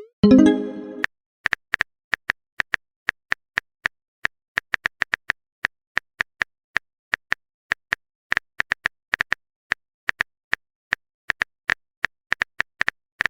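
A short pitched message chime in the first second, then a long run of phone keyboard typing clicks: sharp single taps at an uneven pace, a few a second, with short pauses.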